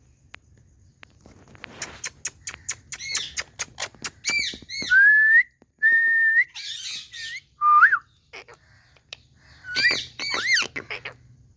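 Indian ringneck parrot chirping and whistling: a quick run of clicks and short chirps, then several drawn-out whistled notes, some rising in pitch, and a few more arching chirps near the end.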